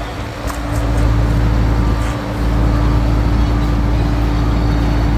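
Heavy diesel engine of a concrete truck running steadily, a low rumble with a steady hum over it and a few faint clicks about half a second in.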